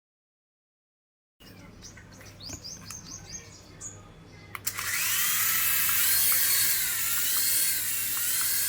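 High-pitched whirring of a small electric motor, its pitch rising and falling in waves, starting suddenly about five seconds in; faint high chirps come before it.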